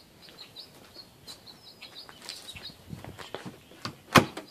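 Small birds chirping in short, high notes, with soft rustling and handling clicks, and one sharp click or knock about four seconds in.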